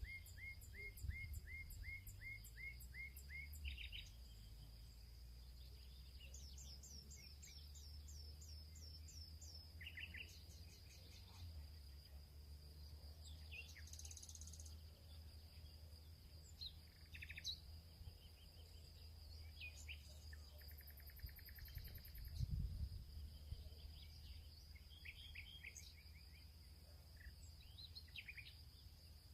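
Birds calling faintly: a quick series of repeated notes at the start, a run of short falling whistles a few seconds later, and scattered chirps throughout. Under them run a steady high-pitched tone and a low rumble.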